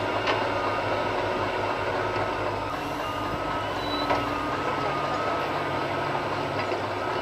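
Heavy diesel engines of an excavator and a dump truck running steadily under load, with a high reversing alarm beeping over them through most of the stretch.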